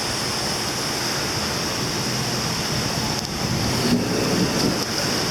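Fast floodwater rushing in a steady wash of noise, growing louder and more uneven about three seconds in.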